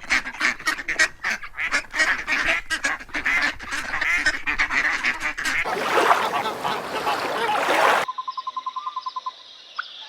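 A flock of waterfowl calling, with many overlapping honks and quacks in quick succession. After about eight seconds it cuts suddenly to a much quieter sound: a fast run of short high peeps and a few rising chirps.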